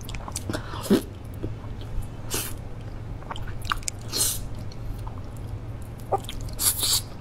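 Close-miked wet chewing and lip-smacking of durian flesh, in short irregular smacks with a few brief sucking hisses, over a low steady hum.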